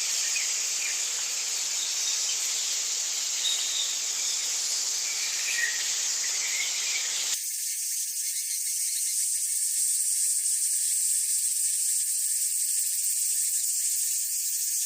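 Steady high-pitched insect shrill of crickets or cicadas, with a few short bird-like chirps in the first half. About halfway through it switches abruptly to a thinner, even shrill.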